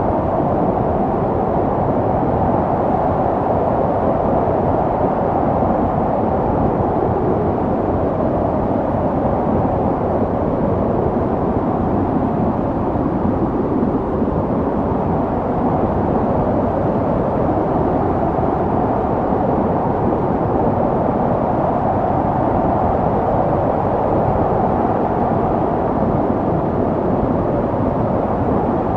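Snowstorm wind blowing in a steady rush, with slow swells that come and go over several seconds.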